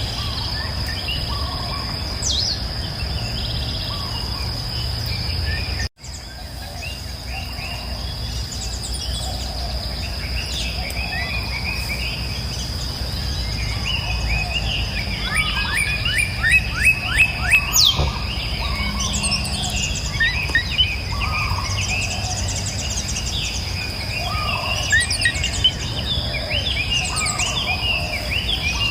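Several songbirds chirping and singing over a steady, high-pitched insect drone and a low steady background noise, with a fast run of repeated notes about halfway through. The whole sound cuts out for an instant about six seconds in.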